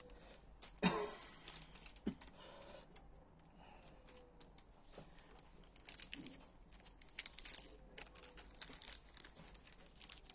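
Hands handling small parts and crinkly packaging: irregular light clicks and crinkling, with a sharper knock about a second in and another about two seconds in.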